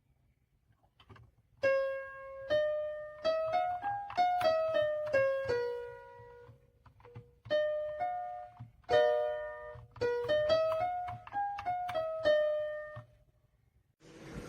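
A simple melody played one note at a time on a keyboard's piano sound, in two short phrases with a pause between them. Each note rings and fades.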